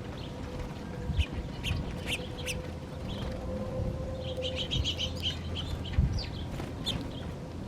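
Small birds chirping in short, separate calls, with a quick rapid run of chirps about four seconds in, over a steady low rumble.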